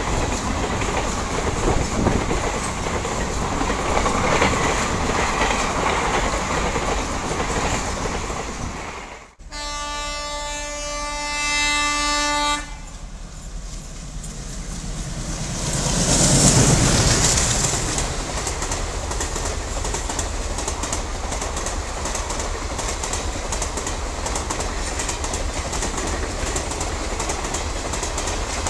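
Express train coaches clattering past at speed. After a sudden break about nine seconds in, a diesel locomotive's horn sounds steadily for about three seconds. The locomotive then runs past at speed, loudest as it goes by, and its coaches follow with a continuous rush and rapid wheel clatter over the rail joints.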